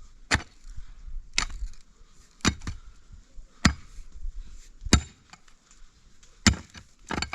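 Sharp striking blows at a steady working pace, about one every second or so, seven in all, the last two close together near the end.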